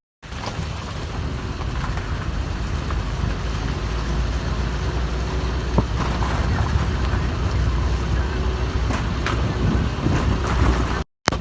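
Vehicle driving along a road: a steady low rumble of engine and road noise under a hiss, with a few scattered knocks. The sound drops out briefly near the end.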